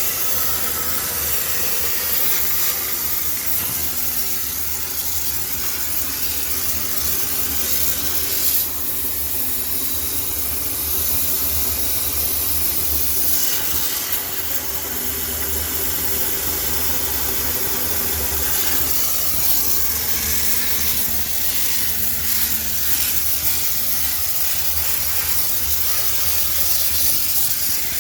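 High-pressure steam cleaner jetting steam in a loud, steady hiss while sterilizing a washing machine, with a low hum underneath. The hiss wavers in strength a few times.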